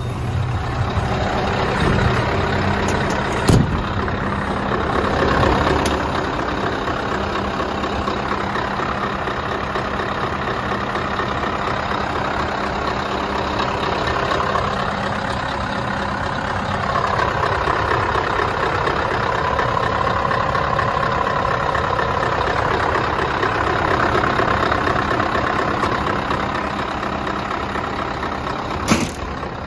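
Scania R560's V8 diesel engine idling steadily. Two sharp knocks cut through, one a few seconds in and one near the end.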